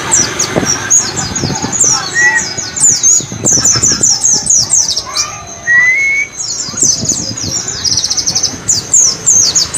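White-eye (pleci) singing a fast, chattering run of high chirps that fall sharply in pitch, with a quick trill about eight seconds in and a few lower rising whistles mixed in.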